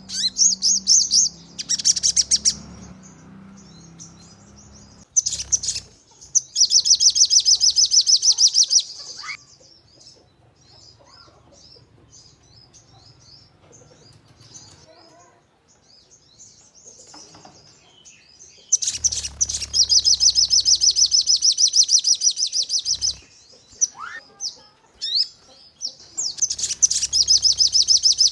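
Sogon bird calling in bursts of rapid, evenly repeated high notes, each burst lasting two to four seconds: the fast 'nembak' call prized by bird-keepers. Quieter scattered chirps and short rising whistles fill the gaps between bursts.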